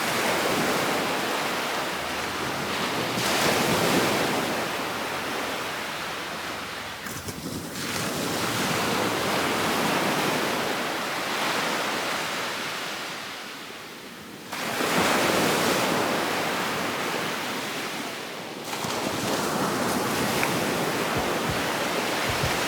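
Gulf of Mexico surf breaking on a sandy beach: waves wash in and draw back every few seconds in rising and falling swells of noise, the strongest one breaking sharply about two-thirds through.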